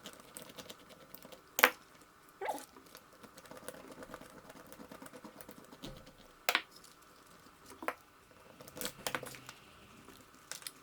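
Small screws, tools and plastic parts clicking and tapping as a small RC car is taken apart by hand, with a handful of sharp clicks, the loudest about one and a half seconds in.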